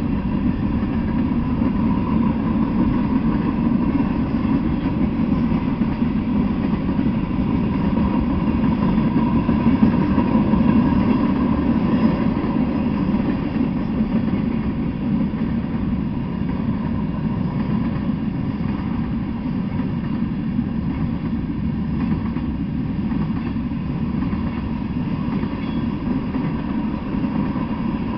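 Freight train of tank cars and covered hopper cars rolling past at speed: a steady rumble of steel wheels on the rails, unbroken throughout.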